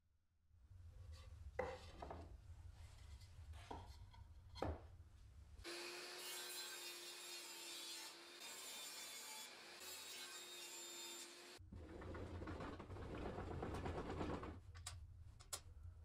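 Wood being worked with hand tools: a few knocks and taps, then about six seconds of steady hissing with a faint hum, then a few seconds of grainy scraping, ending in light clicks.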